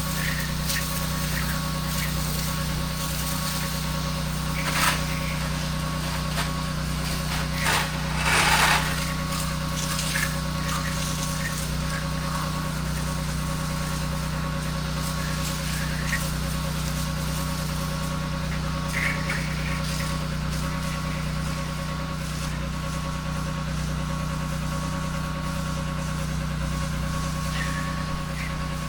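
A pressure washer's engine runs steadily, with brief louder bursts of noise about five and eight seconds in.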